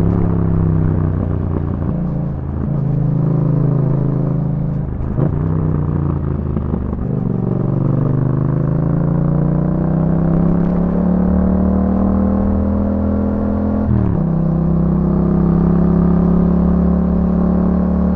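2021 Yamaha MT-07's parallel-twin engine through an Akrapovic exhaust, under way and working through the gears. There is a quick shift about five seconds in, then the revs climb slowly and drop sharply at another shift about fourteen seconds in.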